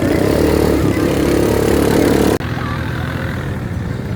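A motor vehicle's engine running steadily. About two and a half seconds in, the sound cuts off abruptly and a quieter engine sound continues.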